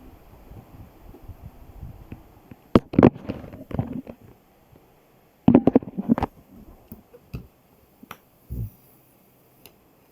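Handling noises: two short bursts of rustling and sharp clicks, about three and six seconds in, with a few single clicks after.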